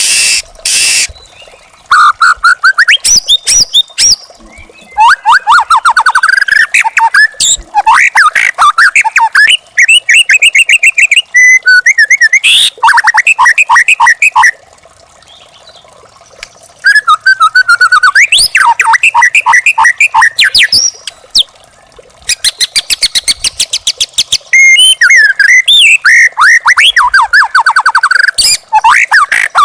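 White-rumped shama singing loud phrases of fast repeated whistled notes and trills, broken by pauses of a second or two between phrases.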